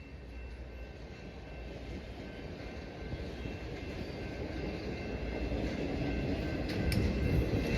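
A train approaching, its rumble growing steadily louder, with wheel clicks on the rails starting near the end.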